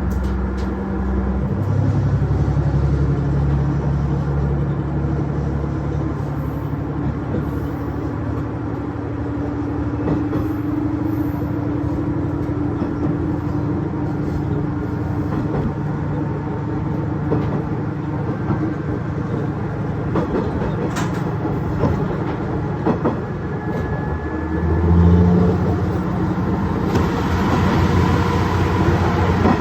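KiHa 110 series diesel railcar running under power, its engine tone steady over wheel-on-rail noise. The engine note steps up about a second and a half in and shifts again around 25 seconds.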